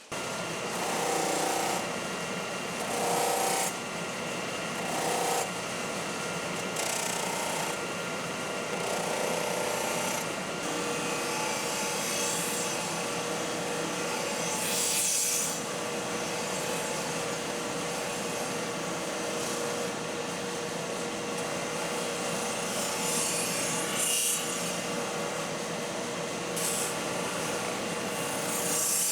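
Powered shop abrasives, buffing wheels and an abrasive belt, running with a steel knife blade held against them to finish it. It is a steady rubbing, grinding noise that swells each time the blade is pressed in, and a steady motor tone joins partway through.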